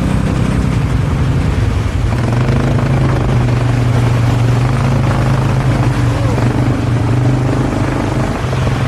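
ATV (quad bike) engine running steadily under way. Its pitch drops in the first second, then it holds an even drone.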